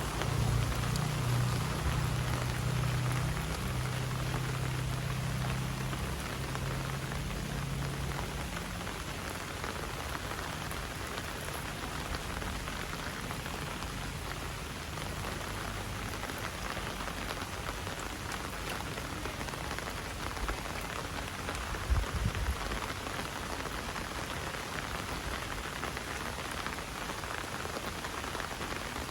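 Heavy rain falling in a steady hiss. A low hum fades out about eight seconds in, and there is a brief low thump about two-thirds of the way through.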